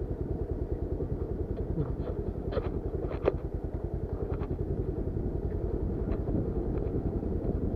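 Motorcycle engine running at low, steady revs, its firing pulses even throughout. A few sharp knocks and rattles come around three seconds in.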